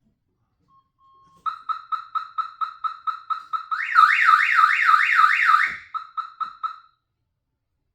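Electronic warning beeps from a pickup's cab, a single pitch repeating about four times a second. For about two seconds in the middle, a warbling alarm-like tone that rises over and over, about three times a second, sounds along with them, and then everything stops. This is heard just before the big-block engine is cranked.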